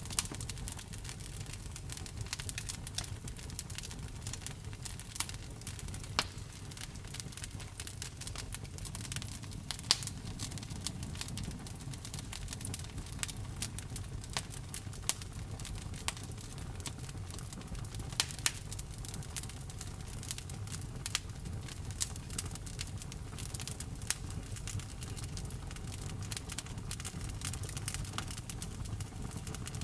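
Wood fire burning with a steady low rumble of flame under irregular crackles and sharp pops of the burning wood. A few pops, about ten seconds in and near eighteen seconds, are louder.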